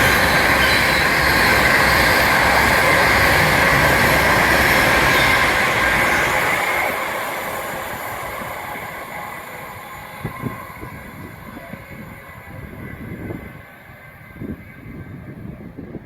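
A train running past at line speed: a loud rushing rail noise with a high ringing whine, steady for about six seconds and then fading away as the train recedes.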